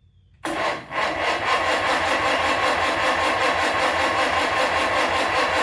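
A Cub Lo-Boy tractor's four-cylinder engine being cranked by its starter with the choke on, starting suddenly about half a second in and churning steadily with an even rapid pulse, not yet catching.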